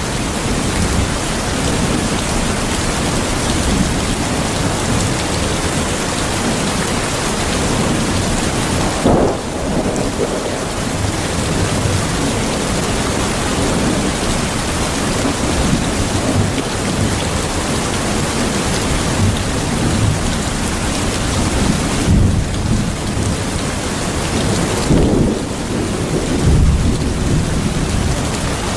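Steady rain with thunder rumbling through it, swelling about nine seconds in, again around twenty-two seconds, and in a longer roll a few seconds later.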